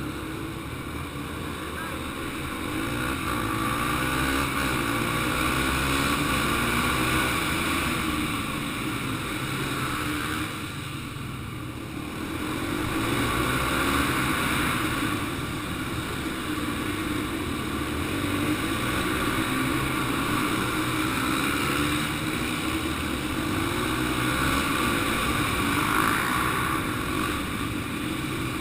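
Yamaha TT-R 125 dirt bike's single-cylinder four-stroke engine revving up and falling back over and over, its pitch rising on the throttle and dropping off every few seconds, as in laps of a dirt track.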